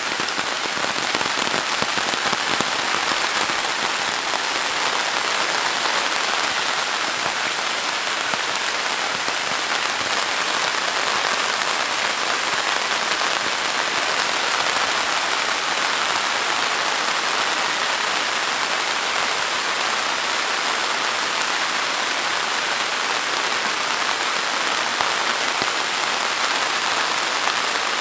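Heavy rain falling steadily on trees and a wet concrete lane, an even, unbroken hiss of countless drops.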